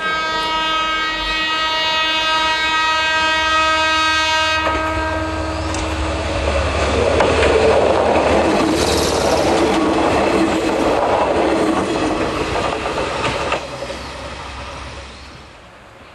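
Eizan Railway electric train sounding one long horn blast, about five seconds, as it approaches, then passing close by with its wheels rumbling and clattering on the rails. The noise drops away as it goes, about three seconds before the end.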